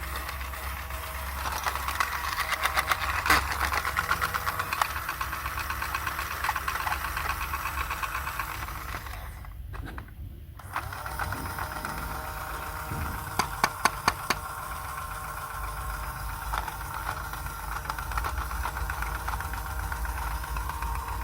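Small electric motor running with a fast, steady rattle. It drops out briefly about halfway through, and a few sharp clicks come shortly after.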